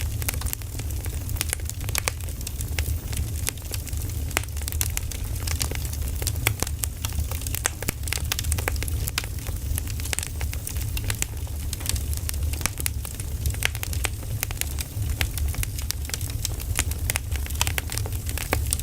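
Firewood burning: frequent irregular crackles and pops over a steady low rumble.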